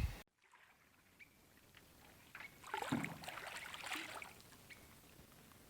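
Faint splashing and dripping of water in a few irregular strokes, from about two to four and a half seconds in.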